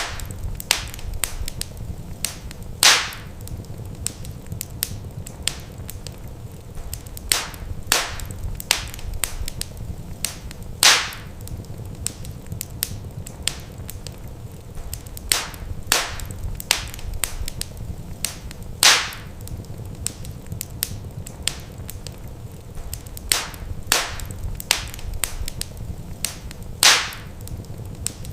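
Wood fire crackling in a fireplace: frequent small snaps and a few louder pops spread through, over a steady low rumble.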